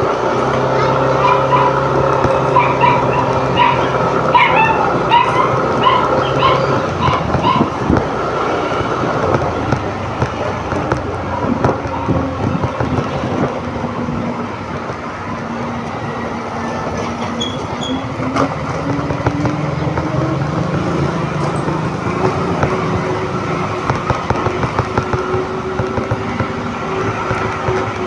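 Yamaha NMAX 155 scooter's single-cylinder engine running on the move, with wind noise over the microphone. The engine note climbs steadily through the middle of the stretch as the scooter speeds up, then holds. Short higher-pitched sounds ride over it for the first seven seconds or so.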